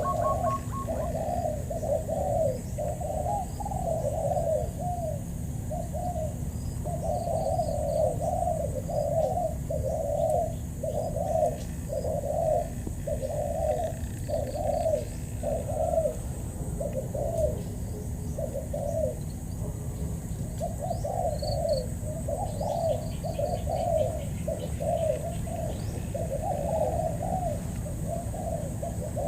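Spotted doves cooing in a long run of short, quick coos, about two a second, with a short break about two-thirds of the way through. This is the rapid challenge cooing that decoy trappers use to draw a wild dove in.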